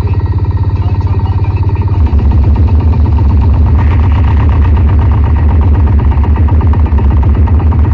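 Loud DJ sound-system music dominated by a deep, fast-pulsing bass line, which swells louder about two seconds in.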